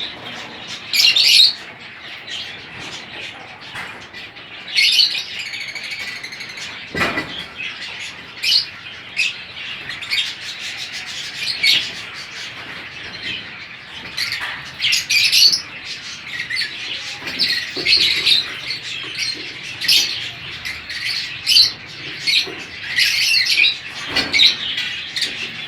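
Lovebirds chirping in short, high-pitched bursts every second or so, irregular and overlapping, with one sharp knock about seven seconds in.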